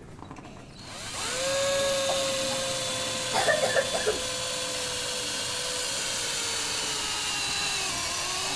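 Power drill with a red drill bit boring a hole into a wall, drilled to the depth mark for a wall plug. It starts about a second in and runs steadily, its whine sagging slightly in pitch, with a few short louder bursts about three and a half seconds in.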